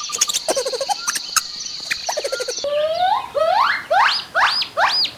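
Animal sounds: a steady high buzz with clicks and short chirps, then, about two and a half seconds in, an abrupt switch to a run of squeaky calls that sweep up in pitch, about two a second.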